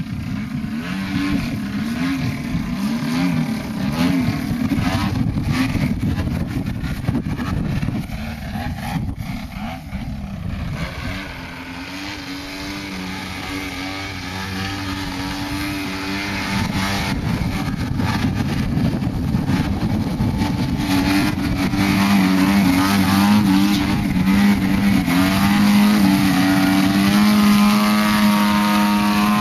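Gasoline engine of a 50cc radio-controlled aerobatic model airplane in flight, its pitch swinging up and down as the plane manoeuvres and passes. The engine note grows louder and steadier over the last third.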